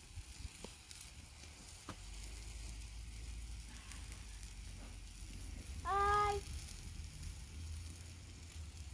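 Pork chops sizzling in a pan over a campfire, with a steady hiss and a low rumble that comes in about two seconds in. About six seconds in there is a brief, loud, high-pitched whine-like call lasting half a second.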